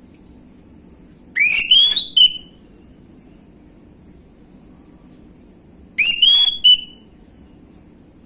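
Orange-headed thrush calling: two short phrases of quick rising whistled notes, about four and a half seconds apart.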